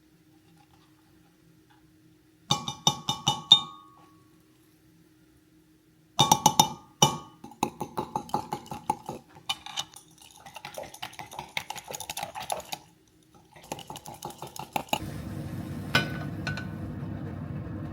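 Glass and ceramic kitchenware clinking and clattering as it is handled, in three bouts of quick, ringing knocks. About fifteen seconds in, a steady rushing noise starts and carries on.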